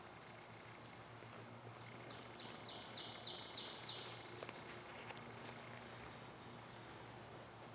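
A songbird sings one phrase of about six quick repeated high notes over faint outdoor hiss and a steady low hum.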